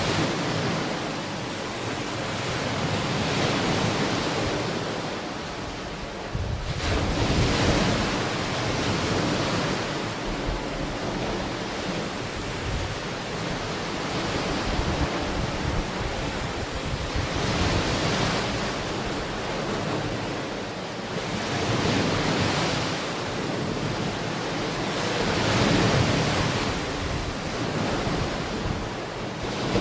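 Ocean waves breaking and washing onto a beach, the surf swelling and easing every few seconds, with a sea breeze buffeting the microphone.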